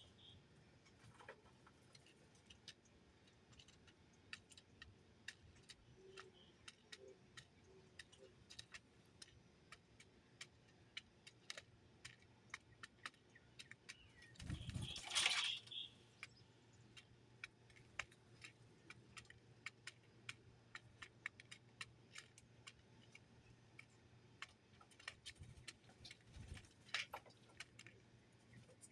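Faint, scattered clicks and ticks of small birds pecking and handling seed at a feeder, with one louder bump and rustle about halfway.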